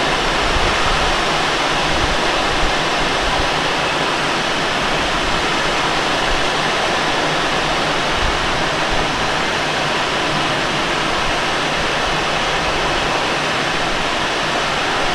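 Steady rush of airflow in the cockpit of a Let L-13 Blaník glider flying in strong wind, an even, loud noise with no breaks.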